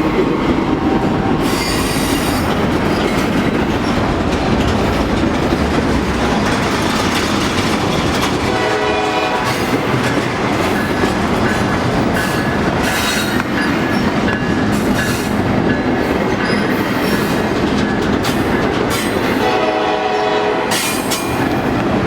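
Norfolk Southern train passing close by, a continuous heavy rumble of wheels on the rails with some clickety-clack. The horn sounds twice in short blasts, about nine seconds in and again near the end.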